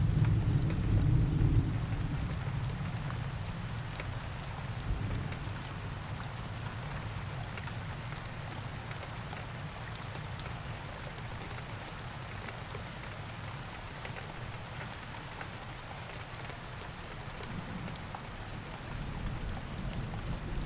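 Steady rain falling, with a roll of thunder dying away in the first couple of seconds and another low rumble of thunder building near the end.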